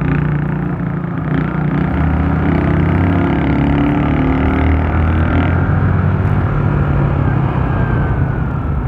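Bajaj Rouser NS160 single-cylinder motorcycle engine running under way, heard through a helmet-mounted mic with wind rushing over the helmet. The engine note is strongest from about two seconds in until past the middle.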